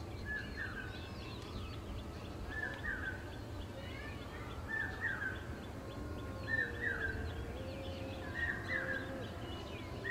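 Birds calling in the countryside: one bird repeats a short, falling call about every one and a half to two seconds while others chirp faintly. A low, drawn-out wavering call comes in about halfway through, and a steady low rumble runs underneath.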